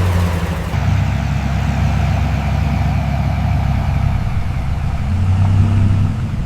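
Engine of a 1942 GMC CCKW 6x6 army truck idling steadily just after starting, a deep even rumble that swells briefly about five seconds in.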